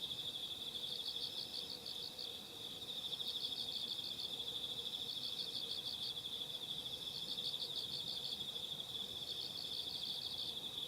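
Night chorus of singing insects: one keeps up an unbroken high trill while another gives repeated short runs of rapid chirps, a run every second or two.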